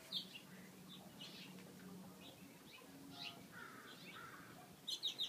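Many small birds chirping: short high calls from several birds scattered throughout, with a louder cluster of chirps near the end.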